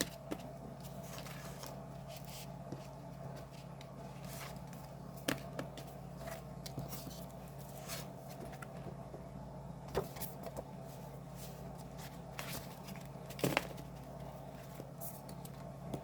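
K-pop album packaging being handled: scattered light clicks and rustles, with sharper taps about five, ten and thirteen and a half seconds in, over a steady low hum.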